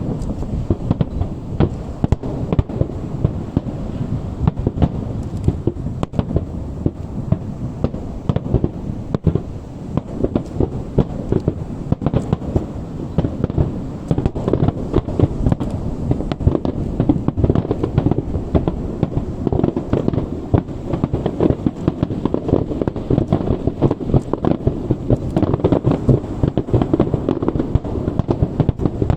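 Fireworks display firing a dense barrage: many aerial shell bursts and reports in rapid, overlapping succession with no pause, mostly low-pitched.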